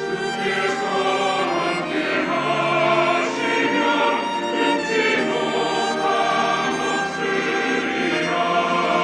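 Church choir singing an anthem with orchestral accompaniment, strings prominent beneath the voices.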